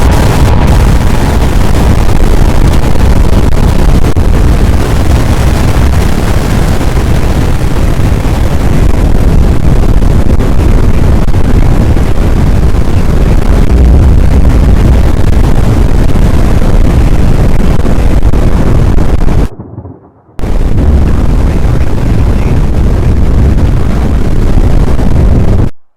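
Strong wind buffeting the microphone in a loud, distorted rumble, with a brief drop-out about twenty seconds in; it cuts off abruptly at the end.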